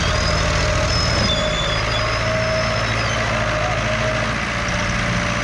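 Diesel tractor engines running hard under load as the stuck sugarcane trolley is pulled and pushed; the engine note steps up about a second in and then holds steady.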